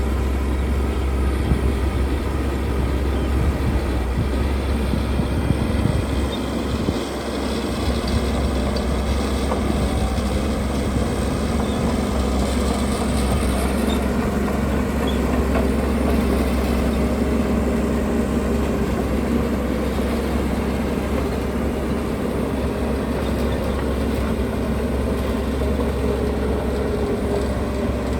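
Heavy earthmoving machinery, bulldozers and dump trucks, running steadily with a deep, continuous engine noise that dips briefly about six seconds in.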